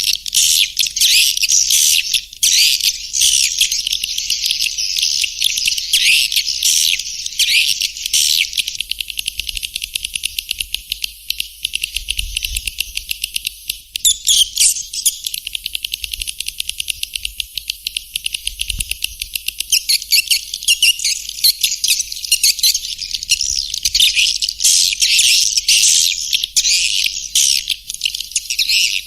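Swiftlet call-sound recording of the kind used to lure swiftlets to a nesting house: a dense, unbroken flock twitter of rapid high-pitched chirps and clicks, with no low tones at all.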